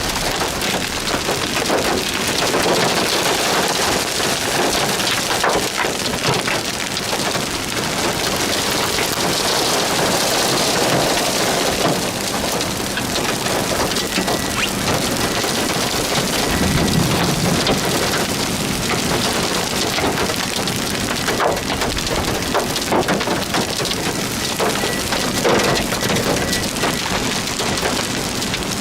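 Heavy rain pattering steadily, dense and loud, with a brief low rumble about halfway through.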